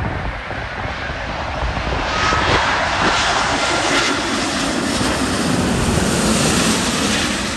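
Airbus A350-1000 jet airliner passing close by on its Rolls-Royce Trent XWB engines: a rushing jet noise that swells about two seconds in, holds loud, and starts to fade near the end, with a faint whine during the build.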